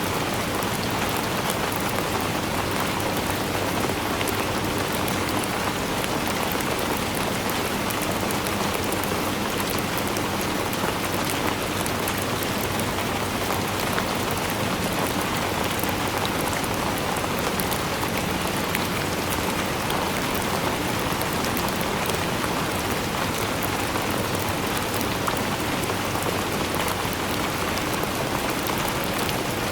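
Steady rainfall, many drops pattering on a surface in an even, unbroken wash of sound.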